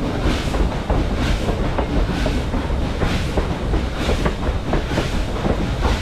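Train running on the track: sharp, irregular wheel clicks over rail joints within a steady rushing noise that swells about once a second.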